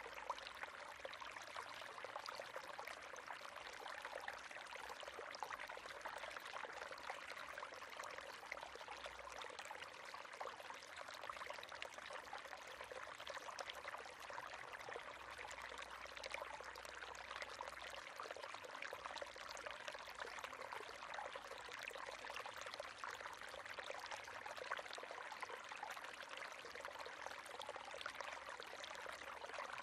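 River water running steadily over rocks, a continuous splashing and burbling flow.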